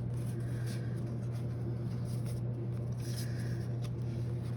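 Steady low hum of room tone with faint, scattered rustles and light ticks of paper and packaging being handled.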